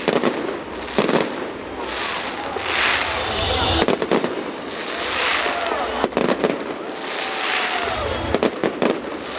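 Fireworks going off: a series of sharp bangs, several in quick clusters around four, six and eight and a half seconds in, between stretches of hissing crackle.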